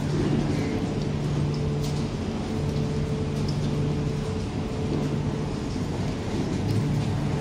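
A vehicle's motor running, a steady low rumble with a hum that drops out briefly a few times.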